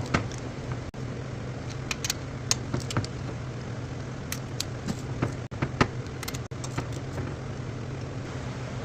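Small click-type torque wrench working the cylinder-head acorn nuts down to 50 inch-pounds: scattered sharp metallic clicks and clinks, a few seconds apart.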